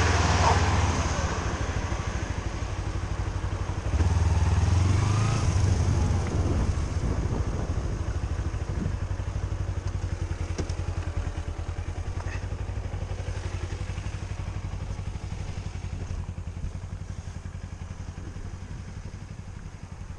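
Vehicle engine running with a steady low rumble. It swells about four seconds in, then slowly fades.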